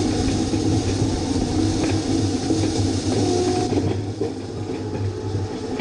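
Tractor engine running steadily, a low hum with a constant mechanical rush over it.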